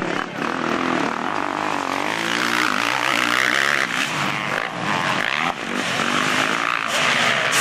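Motocross motorcycle engines revving up and down as the bikes race around the track, with pitch rising and falling several times.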